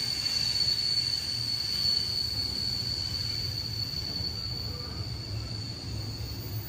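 Train moving past, its wheels giving a high, steady squeal that fades away over a low rumble, growing quieter as it goes.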